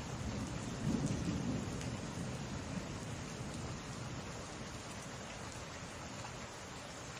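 Steady summer rain falling, with a low rumble of thunder that swells about a second in and dies away over the next few seconds.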